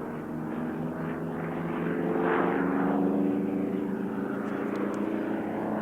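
Chance-Vought F4U Corsair's Pratt & Whitney R-2800 radial engine and propeller running steadily, swelling slightly in the middle.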